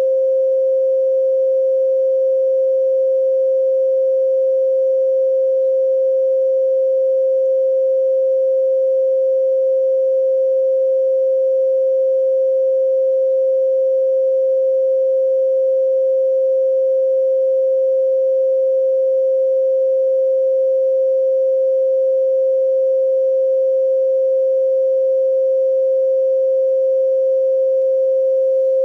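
A steady pure sine tone at 528 Hz, held at one pitch and level without a break.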